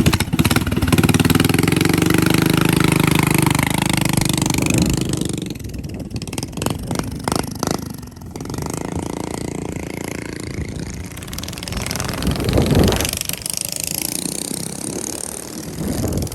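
A mini bike's small engine runs loud and steady for about five seconds, then drops away, with a brief rise again near the end.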